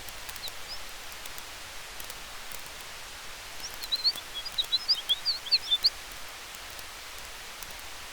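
Campfire ambience: a steady hiss of fire and wind with faint, sparse crackles. From about three and a half to six seconds a small bird gives a quick run of high chirps, the loudest sound here.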